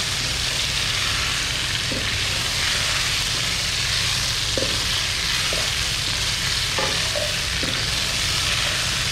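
Marinated chicken pieces sizzling in hot oil in a nonstick kadhai, turned with a wooden spatula that now and then scrapes and taps the pan, over a steady low rumble.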